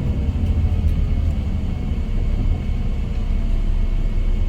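Scania K410IB coach running on the road: a steady low rumble of engine and road noise.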